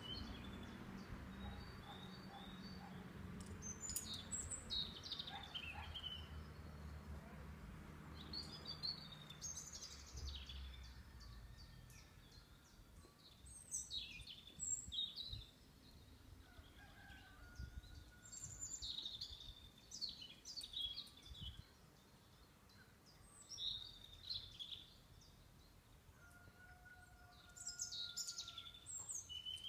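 Wild songbirds singing short, high phrases every few seconds, over a low steady rumble that fades out about a third of the way through.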